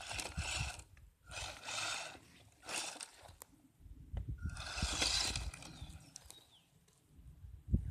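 ECX Torment RC truck's electric motor whining up in several short bursts of throttle, with the truck's tyres and chassis scrabbling over the ground.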